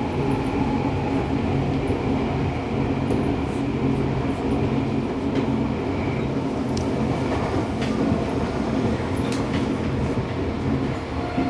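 Running noise inside a Seibu 6000 series motor car with Toshiba IGBT VVVF control: steady wheel-and-rail rumble with a low motor hum, a few light clicks, and a steady whine coming in near the end.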